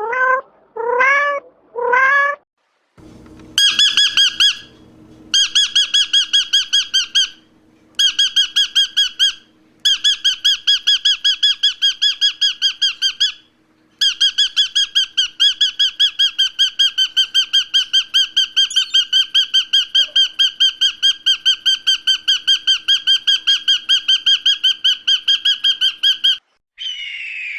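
Three short rising-and-falling cries, then a bird calling in a long, rapid run of short, identical high notes, about five a second, broken by a few brief pauses.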